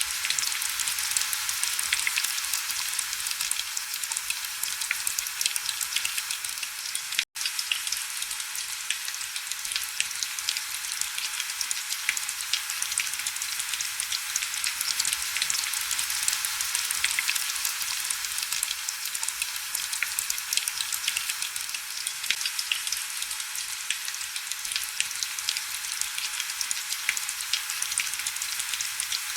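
Heavy rain falling steadily: a dense, even hiss packed with fine crackling drop ticks, with almost no low rumble. A split-second gap of silence breaks it about seven seconds in.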